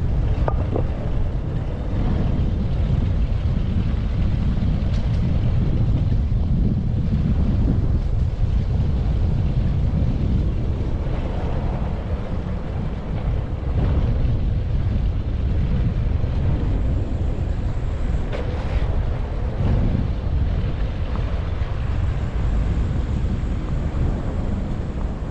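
Wind buffeting the microphone of a handlebar-view GoPro action camera on a moving bicycle: a steady low rumble, with a few faint clicks from the ride.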